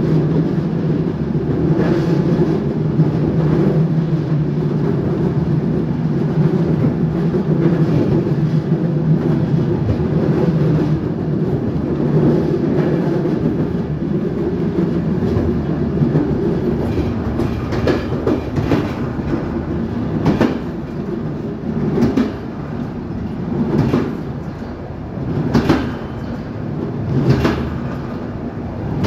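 Train running along the track, heard from inside the carriage: a steady rumble, with the wheels clacking over rail joints, the clacks coming sharper and more spaced, every second or two, in the second half.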